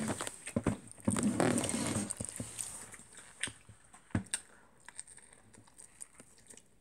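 A boy biting and chewing food held in a paper wrapper, with wet mouth clicks and paper rustling. The noise is densest in the first couple of seconds, then thins to scattered clicks.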